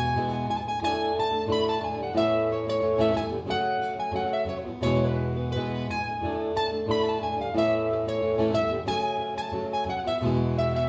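Instrumental break on a plucked acoustic string instrument: picked chords in a steady, repeating pattern, with a deep chord coming round about every two and a half seconds.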